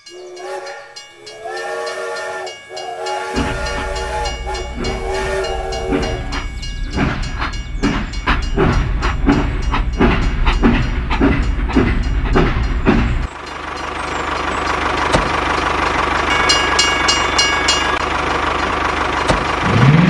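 Toy steam locomotive train set sounding its electronic whistle, then running with a chugging sound over a low rumble that cuts off suddenly about 13 seconds in, followed by a steady hiss.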